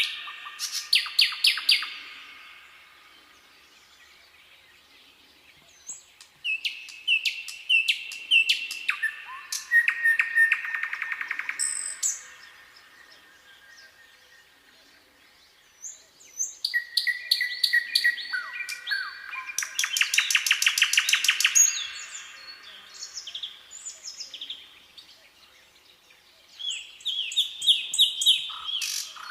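A songbird singing in repeated phrases. Each phrase is a run of clear notes stepping down in pitch, ending in a fast rattling trill, with pauses of a few seconds between phrases.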